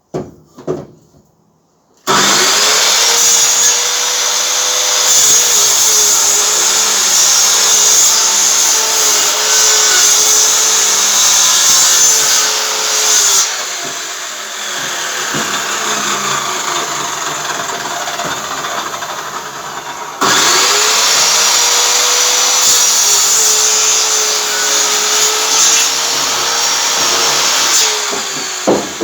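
Electric power saw cutting through a seasoned silver birch log: the motor starts about two seconds in, its pitch dipping as the blade bites into the wood. It stops briefly near the middle, then runs again through a second cut that ends near the end.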